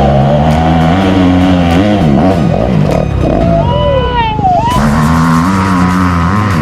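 An off-road vehicle's engine running and revving, its pitch stepping up and down, with a sudden rush of noise about five seconds in.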